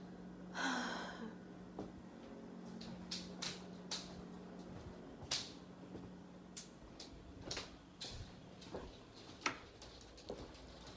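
Scattered light clicks and taps, a dozen or so at irregular intervals, over a steady low hum, with a short breathy rustle about half a second in.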